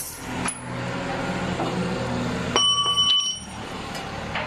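A single high electronic tone sounds for just under a second, starting about two and a half seconds in and cutting off sharply, over a steady low hum of machinery.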